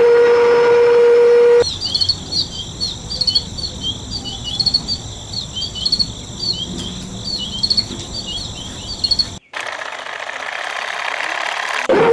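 Birds chirping in short repeated calls over a steady high insect drone, between stretches of a loud steady hum that opens and closes the passage; a hiss fills the gap near the end.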